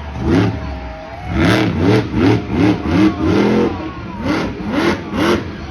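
Monster truck engine revved in about ten quick blips, each rising and falling in pitch, over a steady low idle.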